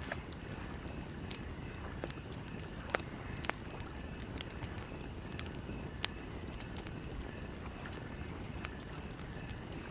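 Campfire crackling, with sharp irregular pops over a steady low rumble; the loudest pops come about three seconds in, half a second later, and again about six seconds in.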